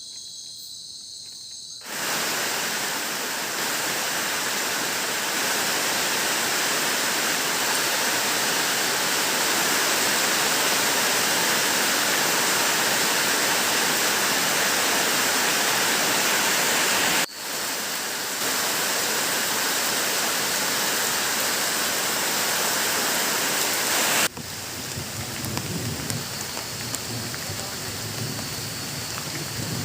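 Crickets chirping for about two seconds, then a steady, loud hiss of heavy rain that starts suddenly and runs on, broken twice by abrupt cuts, with some low rumbling near the end.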